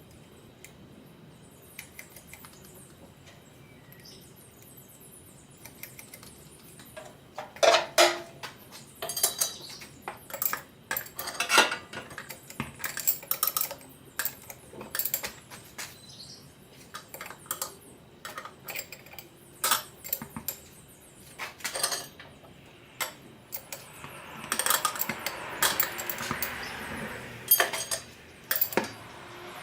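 Metal tools and parts clinking and clanking, an uneven string of sharp knocks that starts after a few quiet seconds, with a rushing noise joining in near the end.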